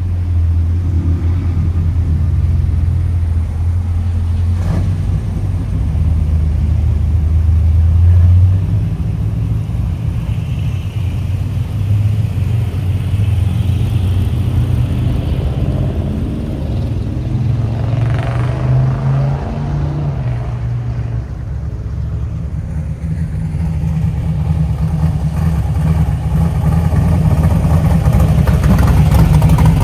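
Car engines running as cars roll out one after another. A low engine note holds steady at first, then shifts as different cars pass and pull away, growing louder near the end.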